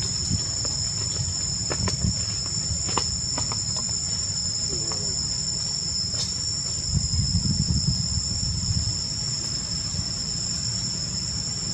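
Insects droning steadily at two high pitches over a low rumble, with a few faint clicks.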